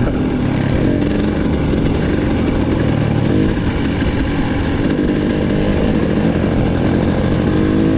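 Dirt bike engine running steadily close by.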